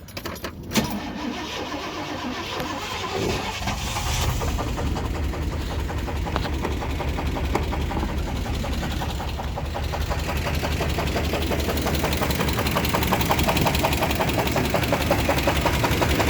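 Small-block V8 starting up about a second in, then running with a fast, steady knock in time with the engine. The knock comes from failing connecting-rod bearings: rod bearing 1 was nearly gone and spinning, and rod bearing 2 was worn out.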